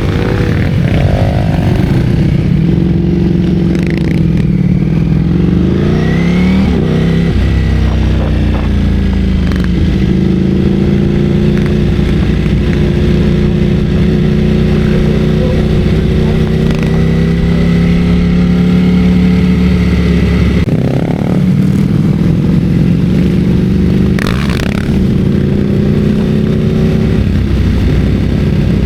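Ducati Streetfighter V4S's V4 engine running on the move. It rises in pitch about six seconds in and drops sharply at a gear change, then pulls steadily at cruising speed over the rush of wind.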